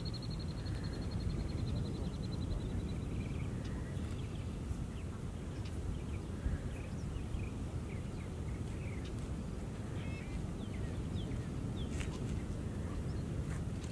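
Wild birds calling outdoors over a steady low rumble. A high, thin trill fades out over the first couple of seconds, then short scattered chirps follow.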